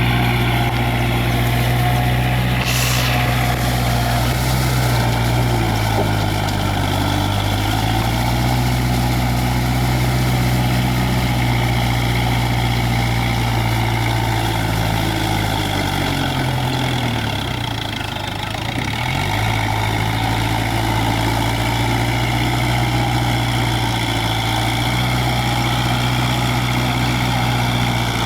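Kubota tractor's diesel engine running steadily at working speed. About 16 seconds in its note sinks lower, then climbs back to the same speed by about 19 seconds. There is a brief hiss about three seconds in.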